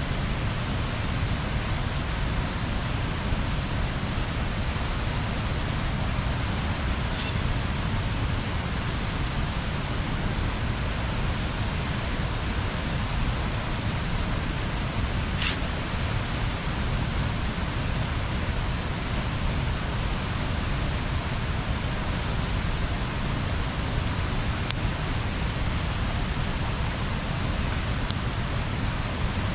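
Bonfire burning with a steady rushing hiss, broken by a few sharp pops from the burning wood, the loudest about halfway through.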